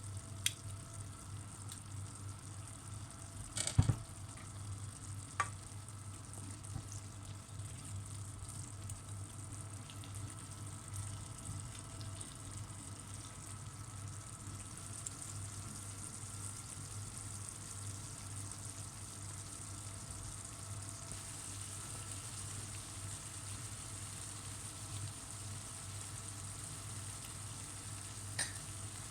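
Food frying in oil in a pan with a steady sizzle, and a few sharp knocks, the loudest about four seconds in.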